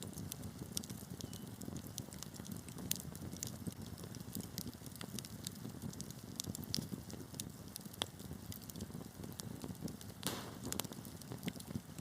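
Wood fire crackling: a steady low rumble of the burning logs with irregular sharp pops and snaps, and a brief cluster of louder crackles about ten seconds in.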